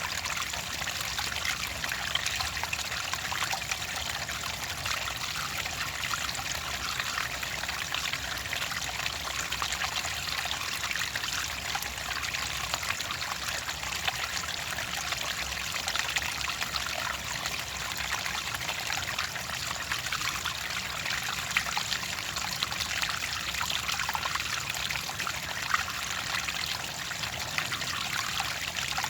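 Clear water trickling and pouring steadily, with a constant splashing patter.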